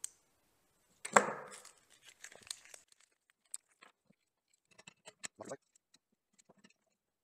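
Handling noise from fitting bolts into the parts of a tilting sander stand: one sharp knock about a second in, then a scatter of small clicks and taps.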